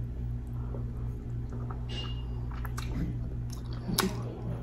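Close-miked wet chewing and lip smacking of sauce-drenched deshelled seafood, with scattered short squishy clicks, the sharpest about four seconds in. A low steady hum runs underneath.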